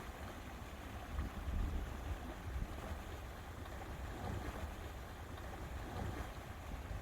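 Wind buffeting the microphone in uneven low gusts over a steady wash of lake water.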